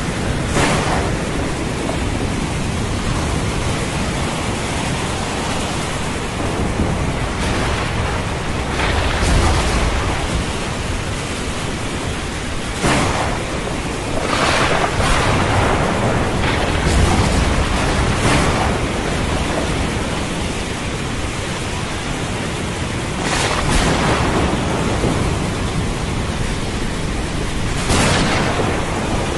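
Thunderstorm with heavy rain: a steady dense hiss of rainfall, with low thunder rumbles swelling twice and several brief sharper swells of noise.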